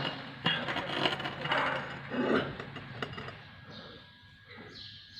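Metal tools and parts of a car's rear drum brake clinking and scraping as they are handled, with several sharp clicks in the first few seconds, then quieter.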